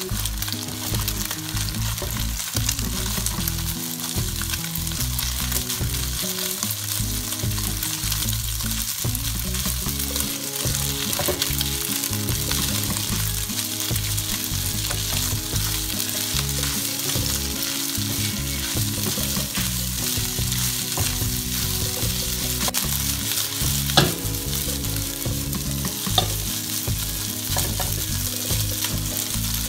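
Egg fried rice sizzling in a hot nonstick wok while it is stirred and scraped with a spatula. The sizzle is steady, and two sharp clicks come near the end.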